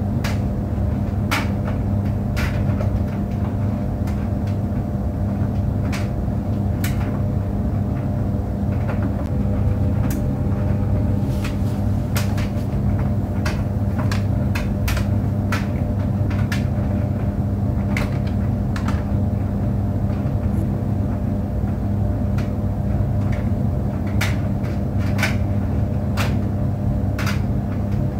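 Tumble clothes dryer running: a steady hum and rumble with irregular light knocks every second or so.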